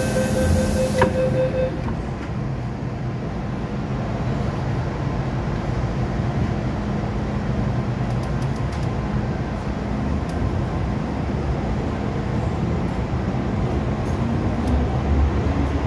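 MTR Kwun Tong Line M-Train running, heard from on board: a steady rumble of wheels and running gear. A brief high hiss stops about a second in. Near the end a motor whine rises in pitch as the train picks up speed.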